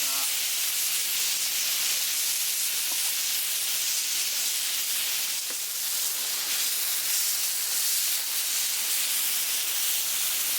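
Meat sizzling steadily over a camp fire, an even frying hiss.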